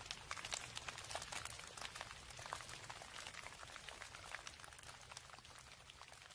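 Rain falling, a dense patter of individual drops over a steady hiss, slowly growing quieter.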